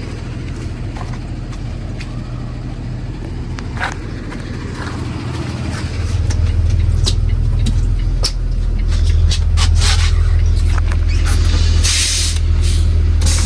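School bus engine idling, growing louder about six seconds in and again a little later, with scattered sharp clicks and a short air hiss near the end.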